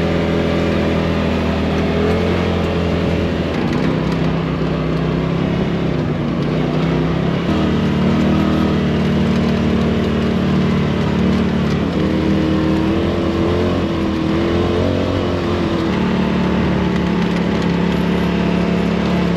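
A vehicle's engine running while driving, with heavy wind and road noise throughout; its pitch steps up and down several times, at about 4, 8, 12 and 16 seconds in.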